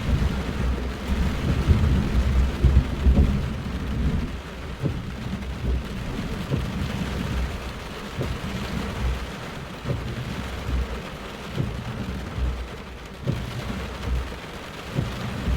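Heavy thunderstorm rain pouring steadily, with thunder rumbling underneath. The rumble is strongest in the first few seconds and swells again a few more times.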